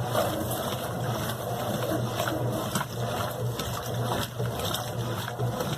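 Brastemp BWQ 24 washing machine running: water moving inside it over a steady low motor hum.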